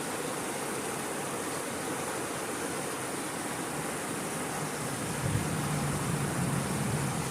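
Steady rushing of water at a dam. A low hum joins about five seconds in.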